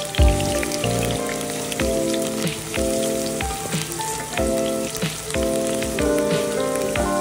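Eggplant slices frying in oil in a pan, a steady sizzle with fine crackles. Background music with chords and a steady beat plays over it.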